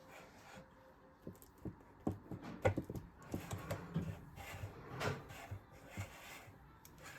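Irregular light knocks and clicks of things being handled in a kitchen, a quick run of them through the middle.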